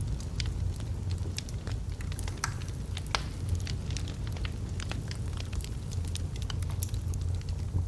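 Wood fire of burning logs crackling, with frequent sharp pops and snaps over a steady low rumble of the flames.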